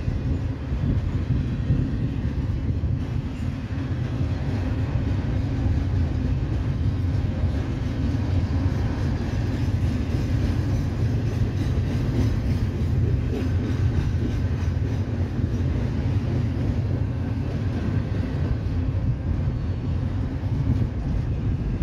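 Intermodal freight train of double-stack container well cars rolling past, a steady low noise of steel wheels running on the rails.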